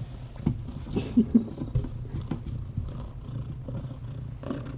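Cat purring steadily and close, a low continuous rumble, with a few small rustling clicks over it.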